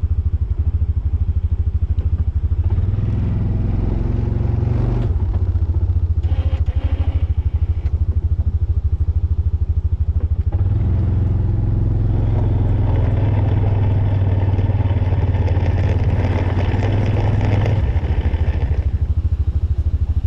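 Engine of a snow-plowing vehicle running steadily with a pulsing low drone. It works harder twice, briefly a few seconds in and again for most of the second half, as the plow pushes snow.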